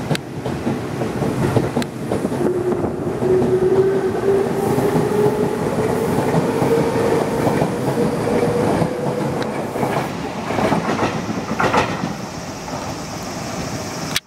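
A Tobu Railway electric commuter train running through a station platform at speed without stopping: wheels clattering over the rail joints, with a tone that rises slightly in pitch from about two seconds in until near ten seconds. The clatter grows sharper near the end of the train and then fades as it passes.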